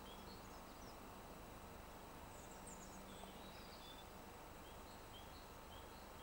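Faint short bird chirps repeating about every half second, with a brief higher twitter about two and a half seconds in, over a steady low background hiss.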